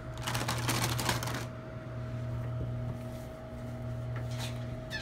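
Quick rustling and clicking of small items being gathered up off a table for about the first second and a half, then fainter scattered clicks over a steady low hum.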